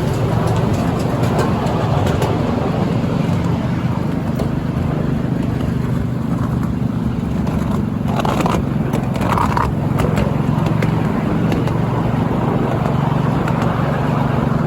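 A miniature railway train running with a steady mechanical hum. A couple of brief higher sounds come about two-thirds of the way through.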